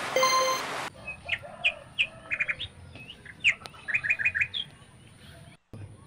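Small birds chirping: a string of short, sharp calls and quick trills. It comes after a steady hiss with a ringing tone that cuts off about a second in.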